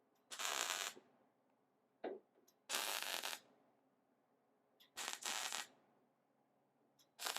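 Welder laying a series of short tack welds on sheet-metal body panels, four crackling bursts of about half a second each, roughly two seconds apart. The tacks are spaced out so the thin metal doesn't overheat.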